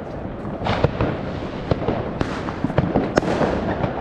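Many fireworks going off at once: sharp bangs at irregular intervals, several a second, over a continuous crackle and rumble of more distant bursts.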